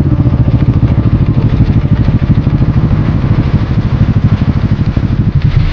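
Motorcycle engine idling close to the microphone, a steady low rumble with a fast, even pulsing beat.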